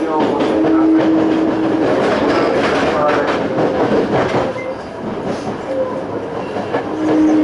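Inside a Toei 5300 series electric train running: the Hitachi-built Mitsubishi GTO-VVVF inverter gives a steady tone at the start and again near the end. In between, a rough stretch of wheels clattering over rail joints and points.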